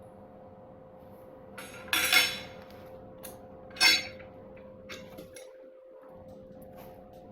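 Metal parts clinking and clattering as they are handled and set down: a louder clatter about two seconds in, a sharp clink about two seconds later, and a few lighter clicks, over a steady faint hum.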